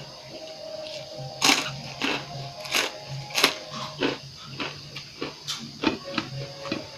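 Close-up eating sounds: an irregular run of sharp clicks and crunches, about a dozen, starting about a second and a half in.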